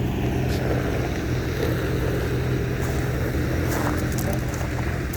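An engine running steadily, a low even hum, with a few faint ticks over it.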